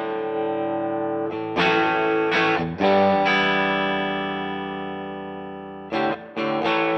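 Electric guitar played through the DVII amp: several chords struck, then one chord left to ring and slowly fade for about three seconds, followed by a run of quick strums near the end.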